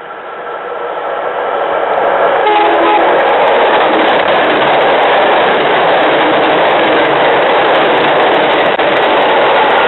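MBTA push-pull commuter train passing close at speed, coaches first and the diesel locomotive at the rear: a rushing noise of wheels on rail that builds quickly over the first two seconds and then holds steady and loud as the coaches go by. A short tone sounds briefly about two and a half seconds in.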